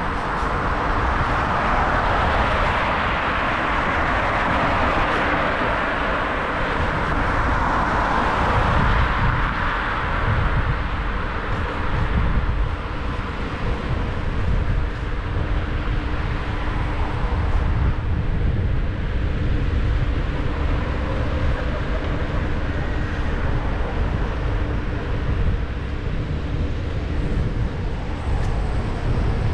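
Wind rushing over the camera microphone and city traffic noise on an e-scooter ride, with heavy low buffeting throughout. A louder rushing hiss swells over the first ten seconds, and a faint steady hum runs through the middle.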